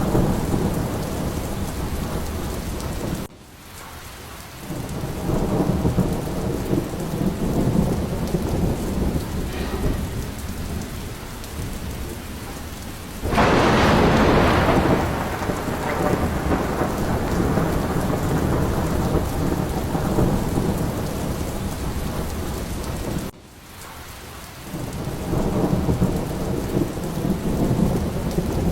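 Steady heavy rain with thunder rumbling low underneath, and a sharp thunderclap about halfway through that fades over a few seconds. Twice the sound drops away abruptly and swells back.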